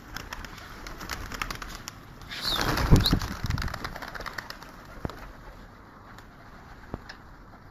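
Pigeons in their loft: scattered light clicks and scuffles, then a loud burst of wing flapping about two and a half seconds in that lasts around a second.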